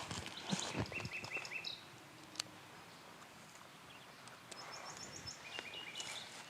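Birds calling in quick series of short repeated chirps, one run about a second in and another near the end, over outdoor ambience. A few soft knocks sound in the first second, and a single sharp click comes a little after two seconds.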